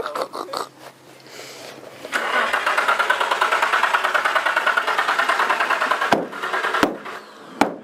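Nissan Pathfinder engine cranking on its starter motor with a fast, even pulsing for about four seconds, then cutting off without catching. A few sharp clicks follow. This is a stalled engine that will not restart, which the owner suspects is not getting fuel.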